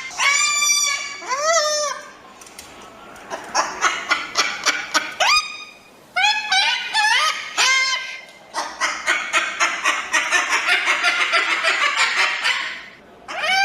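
Cockatoos calling: a series of loud, harsh screeching calls, then a rapid run of harsh chattering screeches from about nine seconds in until near the end.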